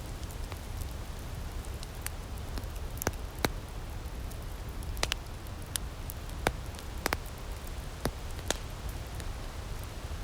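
Outdoor wood fire in a firepit crackling, with irregular sharp pops, a few of them loud, over a steady low rumble.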